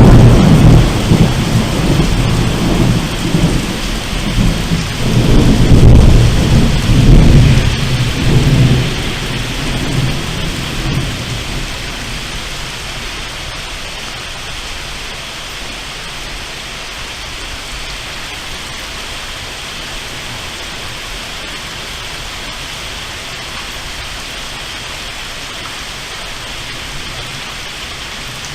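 Thunder rumbling loudly over steady rain, swelling again a few seconds in and dying away by about ten seconds. Steady rain hiss continues after it.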